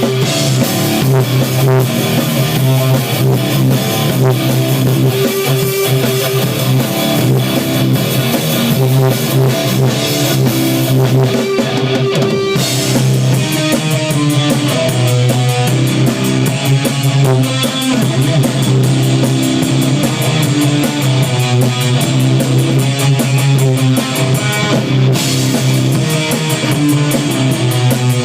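A rock band playing live: guitar, bass and drum kit, loud and continuous, with the music changing about twelve seconds in and again near the end.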